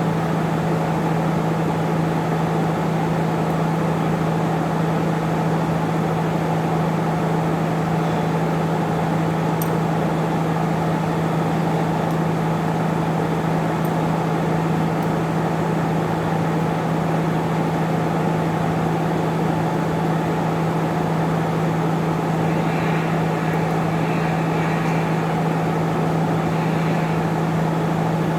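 A machine running steadily with a constant low hum and an even noise over it, unchanging throughout.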